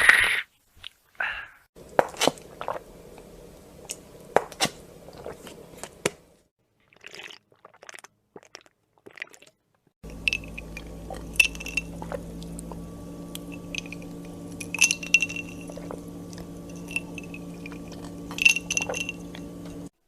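A string of short drinking sound-effect clips cut one after another: wet mouth sounds of sipping and swallowing with sharp clicks, over a steady low hum in the later part.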